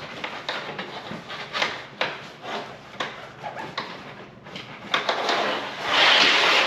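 Microfiber rag rubbing leather conditioner into a leather motorcycle jacket, a quick irregular run of wiping strokes, with a longer, louder rub of cloth on leather near the end.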